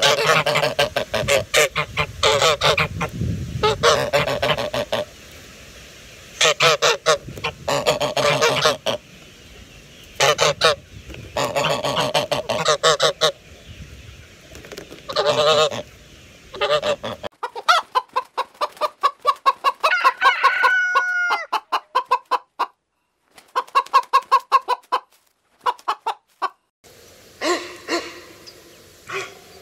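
Loud honking bird calls, repeated in groups of several, then after a sudden change about two-thirds of the way in, quicker, fainter cackling and chirping bird calls.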